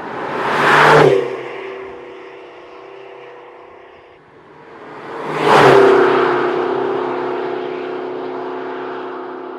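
McLaren GT's twin-turbo 4.0-litre V8 passing by twice at speed. Each pass swells to a peak, first about a second in and again near the middle, then drops in pitch as the car goes away.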